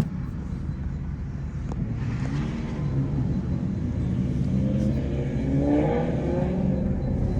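Performance car engines pulling away over a steady low exhaust rumble, the engine note rising twice: once about two seconds in and again around five to six seconds in.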